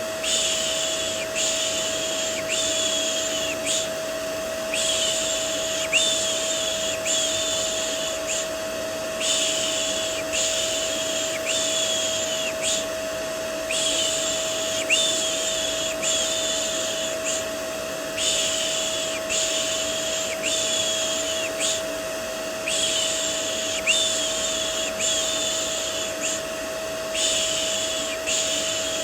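Vacuum cleaner white noise with a steady motor hum, under a looped 'shh' shushing sound for soothing a baby. The shushes come about once a second in runs of about four, with a short pause between runs.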